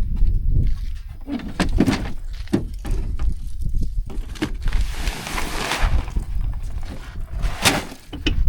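Several knocks and thuds over a steady low rumble of wind on the microphone, with a brief rushing noise about five seconds in.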